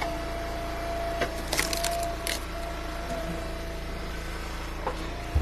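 Eastonmade hydraulic log splitter running steadily while a firewood round cracks and splinters apart, with a quick cluster of sharp cracks about a second and a half in.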